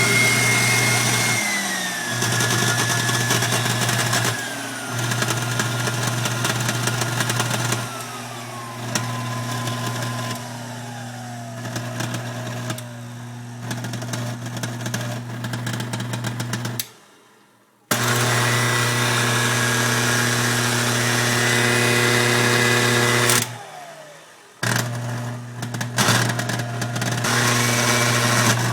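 KitchenAid Artisan stand mixer motor running with a steady hum and a rough grinding, which the owner places near the brushes and suspects comes from a bad armature or bearing. A high whine steps down in pitch several times; the motor cuts out about 17 seconds in, starts again a second later, and dips briefly again near 24 seconds.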